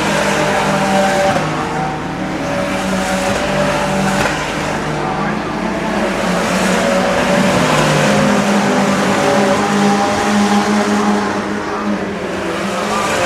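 Several Ferrari Challenge race cars going by at racing speed, their engines overlapping in a continuous loud drone whose pitch keeps shifting as cars approach and pass.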